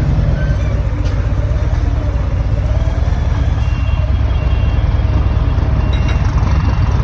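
Scania truck diesel engine running steadily with a deep, even exhaust rumble through an exhaust diffuser. From about halfway in, a faint short high beep repeats less than once a second.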